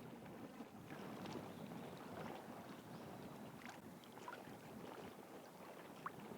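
Faint wind and water moving against a seawall, with a few brief high chirps or clicks.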